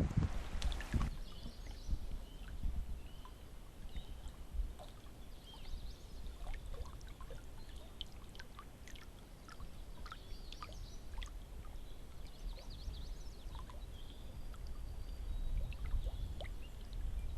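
Canoe paddle strokes in lake water: small scattered drips, trickles and splashes over a low steady rumble.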